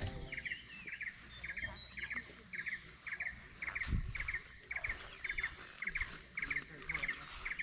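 A small animal's repeated chirping call outdoors: short clusters of three or four quick pulses, about twice a second and evenly spaced. There is a single low thump about four seconds in.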